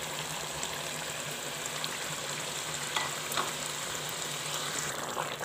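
Chicken and masala sizzling steadily in a karahi over high flame as yogurt is poured in. A couple of light clicks come about three seconds in.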